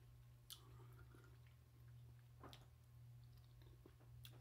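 Faint chewing of food, with a few soft clicks, over a steady low hum.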